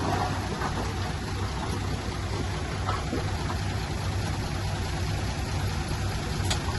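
Heavy diesel engine of earthmoving machinery running steadily, a constant low hum under a broad hiss, with a brief click near the end.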